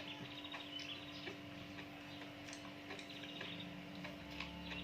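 Faint scattered wet clicks and small pops of chewing sea grapes. Several short, high, chirping trills come and go, over a steady low hum.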